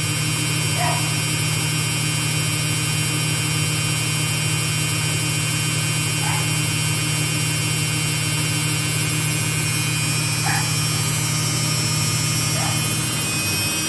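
Samsung front-load washing machine spinning at its maximum 1,200 RPM, with a steady low hum and a high, even motor whine. The machine is vibrating because it has not been levelled.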